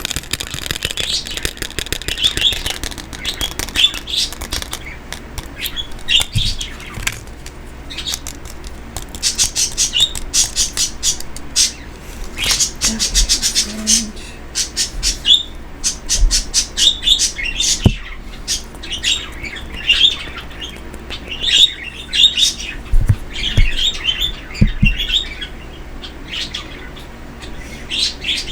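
Pet birds chirping in quick, continual high runs, with a few light knocks from handling in between.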